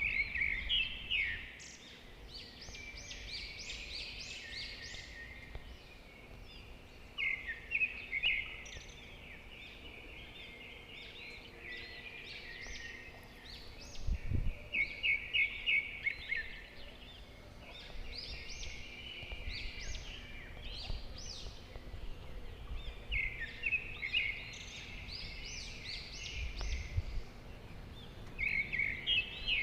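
A songbird singing, repeating a short phrase of rapid notes every few seconds, over a faint steady outdoor background. A couple of brief low thumps are heard, one about halfway through and one near the end.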